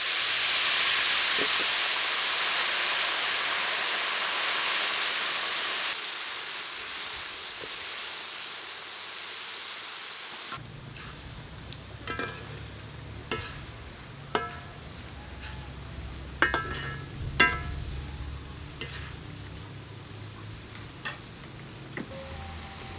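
Silkworms deep-frying in hot oil in a wok: a loud sizzle that slowly fades over about ten seconds, then stops abruptly. After that comes a quieter low hum with a few sharp, ringing clinks of a metal ladle against the wok.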